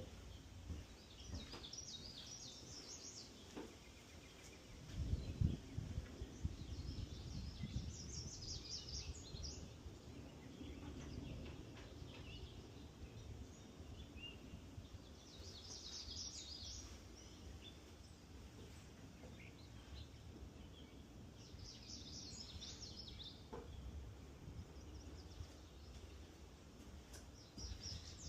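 A songbird singing short, high, warbling phrases, one every six or seven seconds, over a low rumbling background noise that is loudest about five seconds in.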